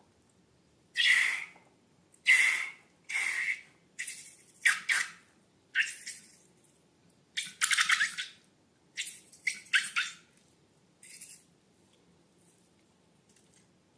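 A run of about a dozen short, separate squeaks and squishes from slime and rubber balloons being handled and squeezed. They come irregularly and die away after about eleven seconds.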